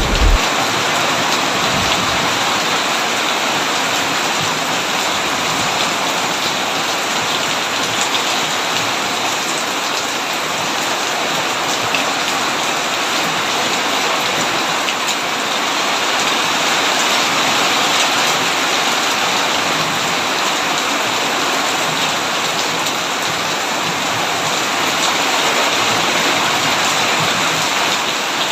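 Heavy rain pouring steadily on a tin roof, a dense patter of drops. A low rumble of thunder dies away in the first moment.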